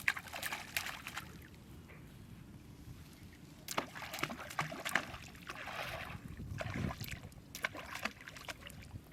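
Water sloshing and splashing in irregular bursts, with small clicks and knocks among them.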